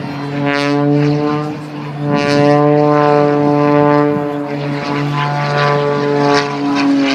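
Propeller airplane engine droning steadily in flight, holding a nearly constant pitch with a slight dip near the end.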